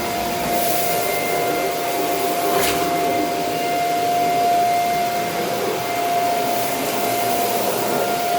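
Vacuum cleaner running steadily with a constant whine, picking up dirt; a brief click about two and a half seconds in.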